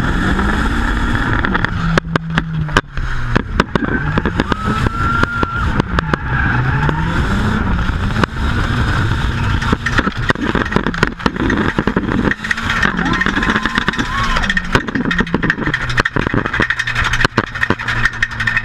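Nissan 200SX S14's turbocharged SR20DET four-cylinder, heard from inside the cabin, revving up and falling back again and again through a drift run, with a steadier note over the last couple of seconds. Sharp clicks and knocks run throughout, and a thin high squeal comes in twice.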